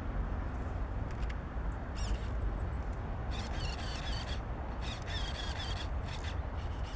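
Birds chirping in short bursts over a steady low rumble of wind on the microphone.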